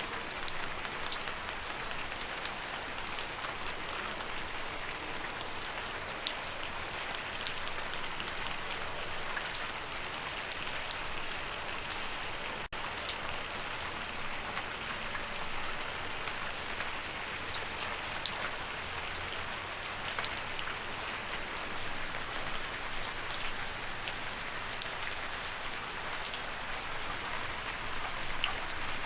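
Steady rain: an even hiss with many separate drops tapping sharply on a surface. A momentary break in the sound about halfway through.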